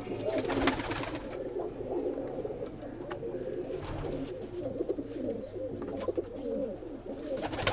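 A flock of domestic pigeons cooing together, many overlapping coos at once, with a few short sharp clicks among them.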